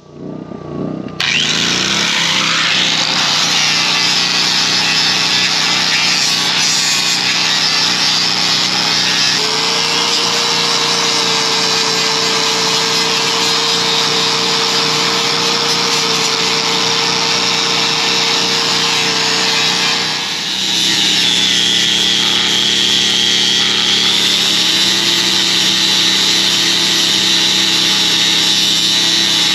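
Power grinder spinning up in the first second or two, then grinding metal steadily. It eases off briefly about two-thirds of the way through and bites in again at a slightly different pitch.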